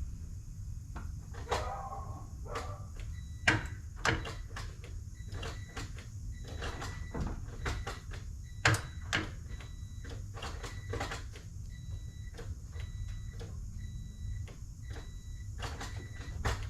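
Irregular sharp clicks as the B18C's starter fails to crank the engine, with a faint beep repeating in short dashes underneath. The owner suspects a flat battery or a faulty starter.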